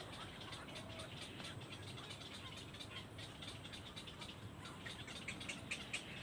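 Nestling birds chirping: a run of many short, high chirps that comes thicker and faster near the end.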